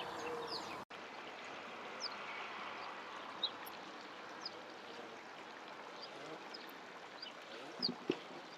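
Scattered short bird chirps over a steady outdoor hiss, with a couple of dull knocks near the end.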